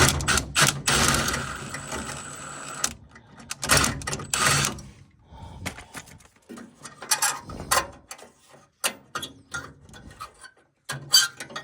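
Tool and metal-part noises at a gas furnace as its flame sensor is taken out: a mechanical whirring from about one to three seconds in and again briefly near the middle, then scattered clicks and knocks of metal parts being handled.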